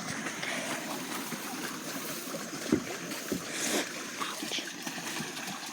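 A small boat handled at the water's edge: steady water and outdoor noise with two dull knocks near the middle, a little under a second apart.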